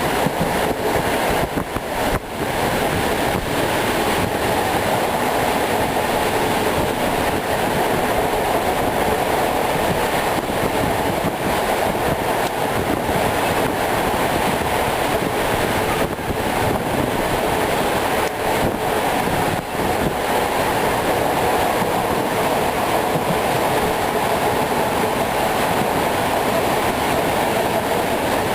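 An ER2R electric multiple-unit train running along the line, heard from inside the carriage: a steady rumble of wheels on rails, with no marked rhythm of rail-joint clicks.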